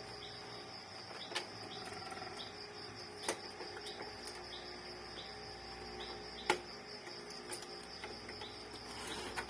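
Crickets chirring steadily in the background. A few sharp clicks of small parts being handled stand out, the loudest about six and a half seconds in.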